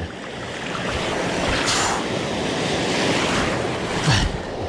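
Gulf surf washing over a sandbar, with wind on the microphone; two louder bursts stand out, about two seconds in and near the end.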